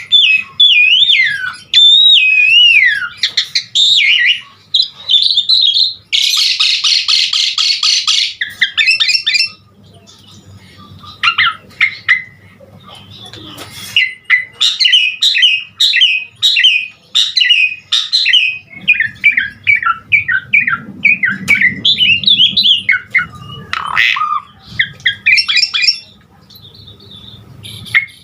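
Pied starling (jalak suren) singing a long, loud, varied song full of mimicked fill-in phrases: sliding whistles at first, a harsh rasping stretch about six seconds in, then fast runs of short chirps and more whistles.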